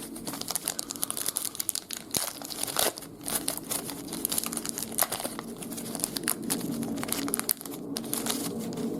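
Trading-card pack wrapper crinkling and tearing as a pack is opened by hand, in a dense run of irregular crackles.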